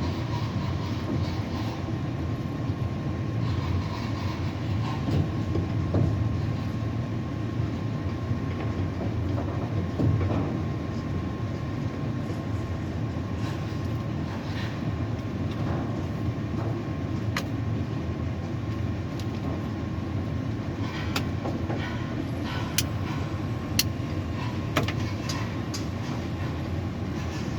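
Steady low mechanical rumble in a tower crane cab, with a faint steady whine and a few sharp clicks in the second half.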